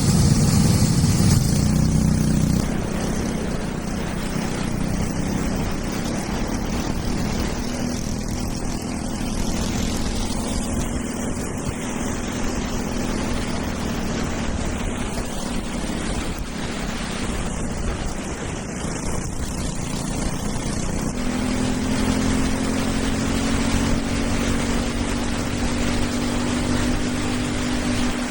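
Racing kart engine running on a wet track, a steady engine tone over a haze of noise. It is loudest for the first couple of seconds, and its pitch climbs slowly over the last several seconds as the kart speeds up.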